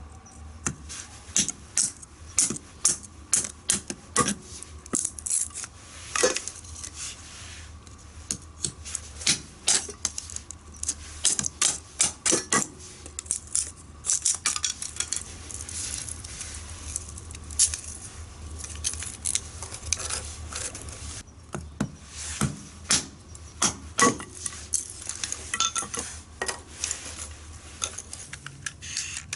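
Utensils and dishes clinking and knocking in quick, irregular taps during food preparation, over a faint steady low hum.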